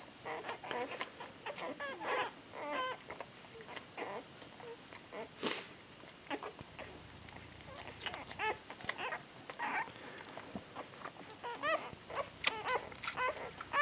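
Week-old puppies squeaking and crying, many short high-pitched squeals coming one after another with small pauses between.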